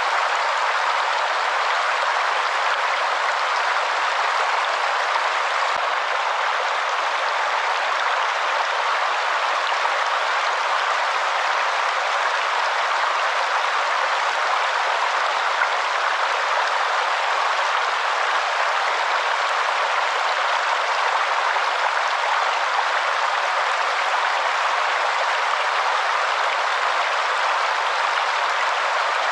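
Waterfall: a steady rush of falling water, even throughout, with no deep rumble.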